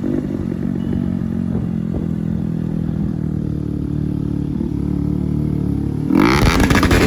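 Bajaj Pulsar NS200 single-cylinder engine idling steadily through a loud aftermarket Akrapovic exhaust, then a sharp throttle rev about six seconds in.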